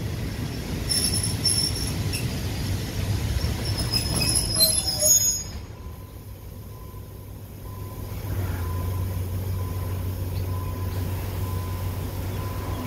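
Passenger train's wheels and brakes squealing high-pitched over the rumble of the carriages as it slows to a stop. The squealing cuts off about halfway through, and after a quieter moment a steady low diesel engine hum of the locomotive takes over.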